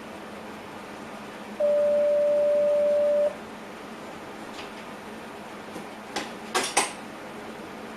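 A single steady, high electronic beep in a train driver's cab, held for under two seconds over the low cab background. A few sharp clicks follow near the end.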